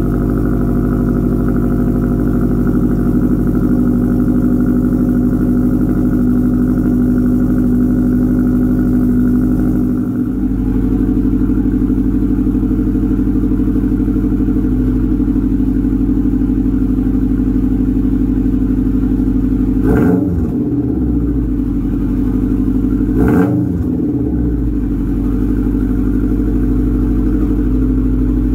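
2015 Subaru WRX STI's turbocharged EJ257 flat-four running through a freshly fitted Invidia catless downpipe, idling steadily with two short throttle blips a few seconds apart near the end. The exhaust is a little loud without the catalytic converter.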